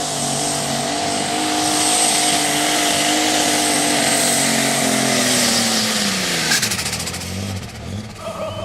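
Super stock pulling tractor's engine running flat out at high revs under load, then the revs falling away about six seconds in as the pull ends. A short burst of crackling comes as the revs drop, and the engine settles to a lower, rougher run.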